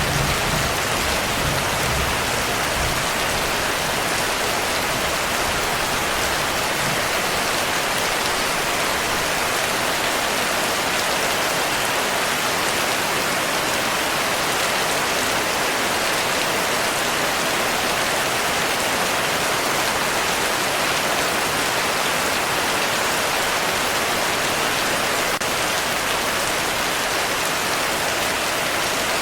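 Heavy rain falling steadily, with a low rumble of thunder dying away in the first few seconds.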